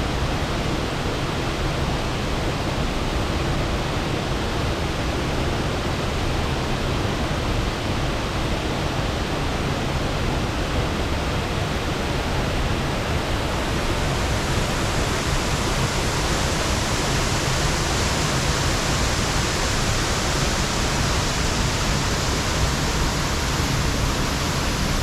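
Waterfall with a steady rush of falling water, growing slightly brighter and hissier about halfway through.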